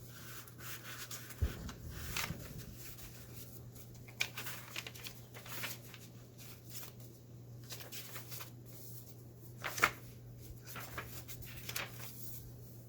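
Paper pages, folders and tags of a handmade junk journal being turned and handled: irregular rustles, flaps and soft taps, with a sharper flap about ten seconds in.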